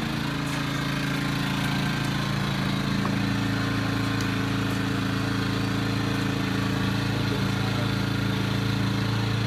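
Small portable generator's engine running steadily with no load connected, freshly pull-started; its pitch shifts slightly a couple of seconds in, then holds even.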